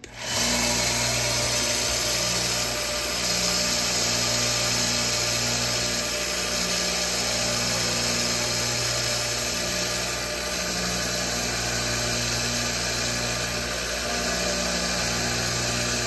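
Harbor Freight 1x30 belt sander switched on, coming up to speed within half a second and then running steadily: a motor hum under the hiss of the running sanding belt.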